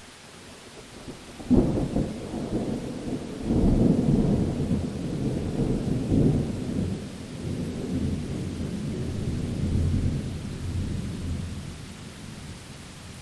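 Thunderstorm: steady rain hiss, then a sudden thunderclap about a second and a half in, followed by rolling thunder that rumbles in several swells and dies away over about ten seconds.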